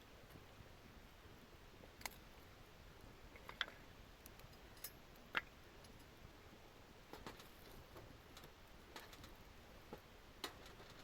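Wood campfire crackling quietly, with sparse, irregular sharp pops over a low hiss.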